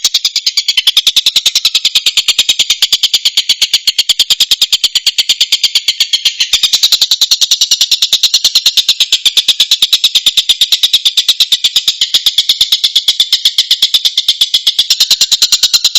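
Tengkek buto kingfisher calling: a loud, unbroken, even series of sharp high notes, about eight a second, starting suddenly out of silence.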